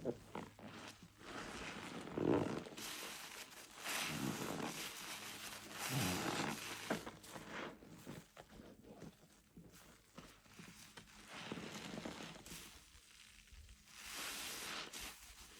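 Soapy orange car wash sponge full of Zote soap-flake lather being squeezed over and over, making wet squelches roughly every two seconds.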